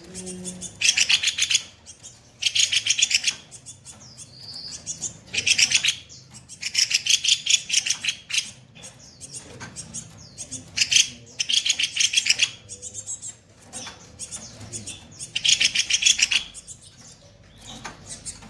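Songbird known in Indonesia as the kopi-kopi bird singing harsh, rapid-fire bursts of chattering notes, each burst a second or less, repeated every second or two.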